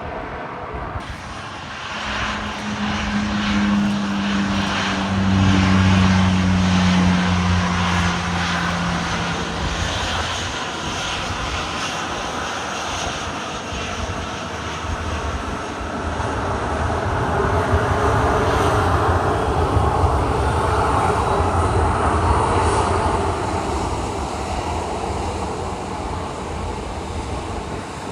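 Jet airliner engines at takeoff power: a loud, wide rumble with a low droning tone that sinks slightly in pitch early on, swelling twice.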